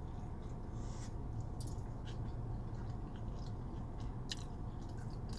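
A person chewing a mouthful of burrito, with scattered wet mouth smacks and clicks, over a steady low hum.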